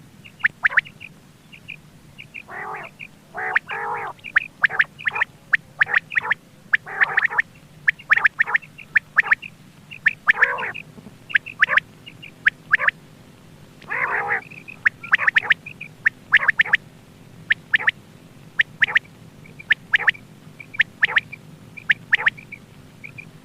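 Quail calling over and over: short, sharp high calls in quick clusters, with a few longer, lower churring calls mixed in. A faint steady hum runs underneath.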